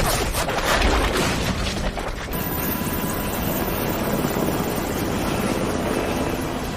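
Helicopter rotor and engine noise with music underneath, choppy for about the first two seconds and then a steadier rush.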